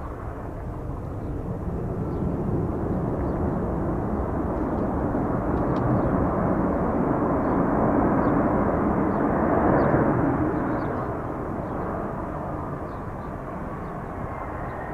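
Jet engines of an Airbus A300-600F freighter landing, a steady roar that swells to its loudest about ten seconds in and then fades away.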